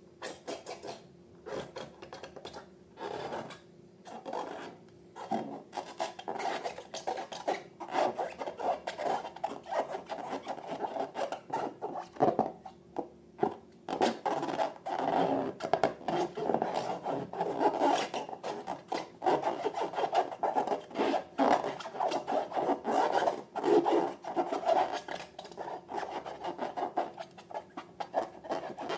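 Close-up rubbing and rasping from handling balloons and slime materials: a dense, irregular run of short strokes with frequent sharp scrapes that starts about half a second in.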